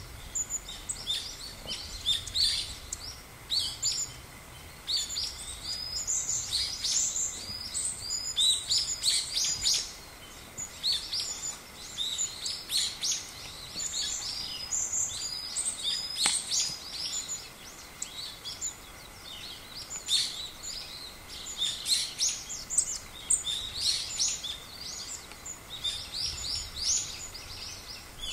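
Small birds chirping, a dense run of short, high, overlapping calls that comes in quick flurries.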